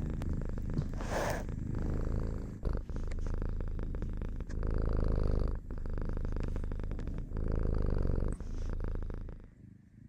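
Domestic cat purring close to the microphone, swelling louder and easing off every couple of seconds, then fading near the end.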